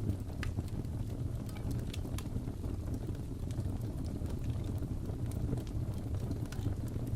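Crackling fireplace: a wood fire with a steady low rumble and irregular sharp crackles and pops.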